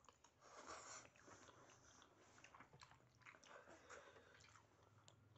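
Faint close-up mouth sounds of eating spicy instant noodles: chewing with small clicks, loudest in a short burst about half a second in.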